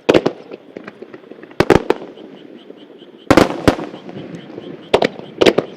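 Aerial firework shells bursting in a star mine barrage: a run of sharp booms about one to one and a half seconds apart. The loudest comes about three and a half seconds in and leaves an echo, with faint crackling between the booms.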